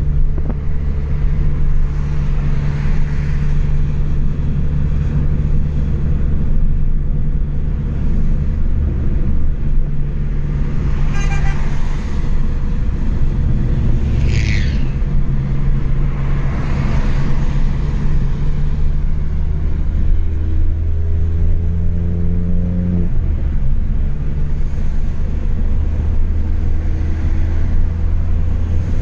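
Chevrolet Astra 2.0 four-cylinder engine running through a straight-through exhaust with no muffler, a steady low drone while driving. About twenty seconds in the engine note rises for a few seconds under acceleration, then drops suddenly, as at a gear change or lift-off. Two brief high-pitched sounds come a few seconds apart near the middle.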